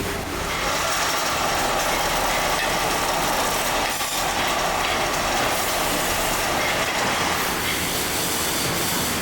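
Factory machinery running steadily with a continuous mechanical rumble and clatter.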